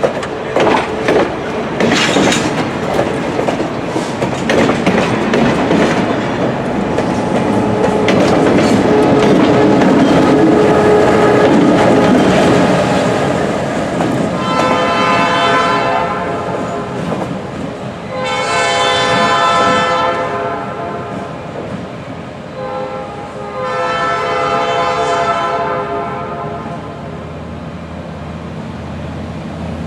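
Diesel-hauled passenger train, led by Reading & Northern GP38-2 locomotives, rolling past with wheels clattering over the rail joints. About halfway through the locomotive's air horn sounds three separate blasts, each around two seconds long.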